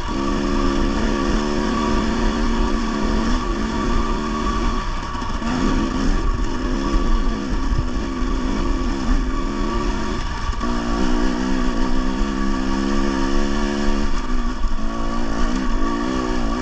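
Dirt bike engine running under changing throttle, its note rising and falling and easing off briefly a few times.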